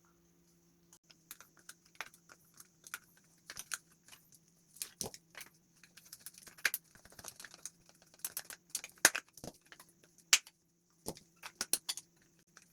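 Irregular sharp clicks and taps of small hard plastic parts being handled, as when the automatic soap dispenser is taken apart. A faint steady low hum runs underneath.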